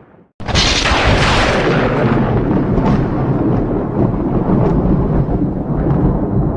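Thunder from a close lightning strike: a sudden sharp crack about half a second in, then loud low rumbling that rolls on for several seconds.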